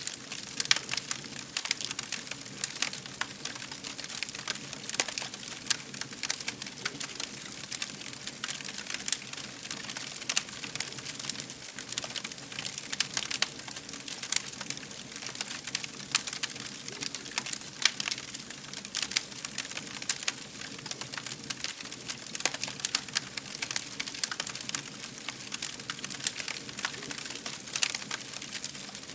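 Wood fire crackling, with many small sharp pops and snaps over a steady hiss.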